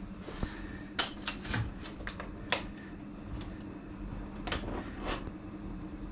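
Several sharp metal clicks and knocks, scattered and irregular, as a dial indicator is set up against a milling machine vise, over a steady low hum.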